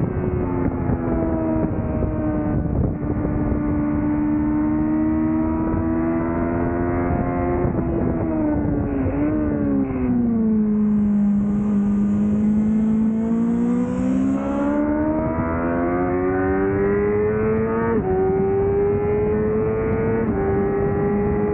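2005 Yamaha YZF-R6's inline-four with an aftermarket Laser exhaust, heard onboard on track. Revs fall in steps as it brakes and downshifts about eight seconds in, stay low through the corner, then climb again as it accelerates, with two upshifts near the end.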